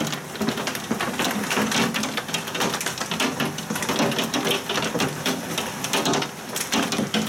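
Heavy thunderstorm rain mixed with hail clattering down in a dense, irregular patter.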